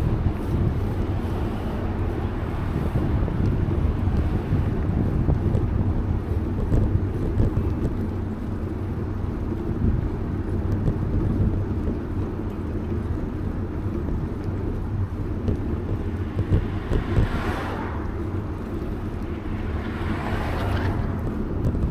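Wind rumbling on the microphone of a camera riding on a moving bicycle, with traffic noise; near the end two vehicles swell past, about three seconds apart.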